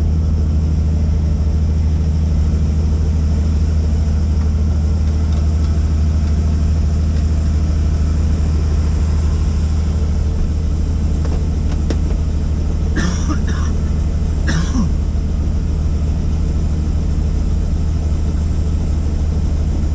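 Tour helicopter's engine and rotor running steadily, a loud low hum heard from inside the cabin. Two short sharper sounds come a little past halfway.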